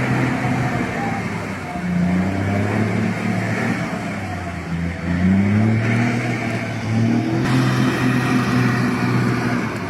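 Cargo truck's engine running and revving, its pitch rising and falling several times.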